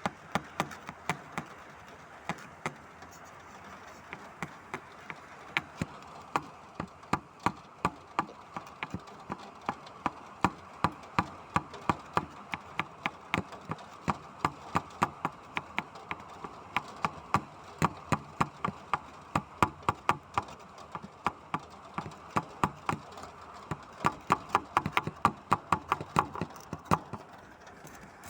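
Rain: a steady hiss with irregular sharp taps of drops striking a hard surface, a few to several a second. The taps grow thicker from about a third of the way in and are densest near the end.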